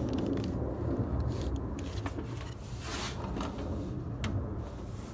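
Land Rover Discovery 2's V8 engine idling steadily, warmed up to normal temperature on a new thermostat, with a few light clicks.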